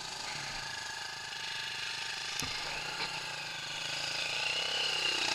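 Off-road vehicle engine running steadily, its sound building over the last second or so.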